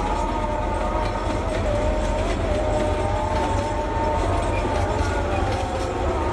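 Freight train rolling past close by: its wagons clatter over the rails under a steady loud rumble, with a wavering high whine from the wheels running through it.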